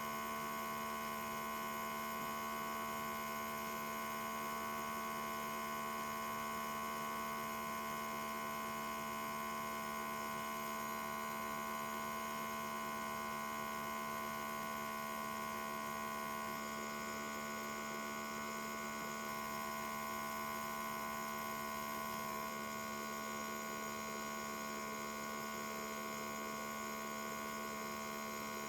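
Steady electrical hum made of several fixed tones, one low and one higher and brighter, unchanging throughout.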